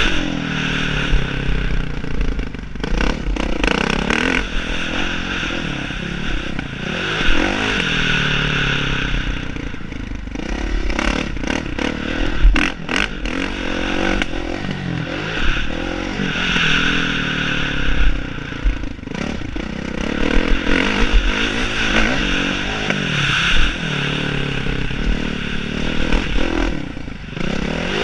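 Motocross bike engine revving up and down again and again as it is ridden, with scraping and clattering. A run of sharp clicks comes about eleven to thirteen seconds in.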